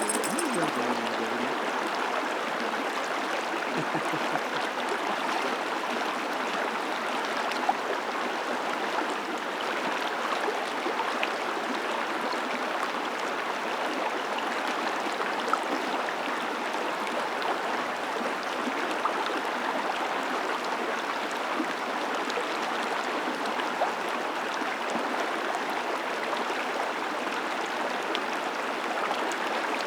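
A creek running steadily, an even stream of water noise with no breaks.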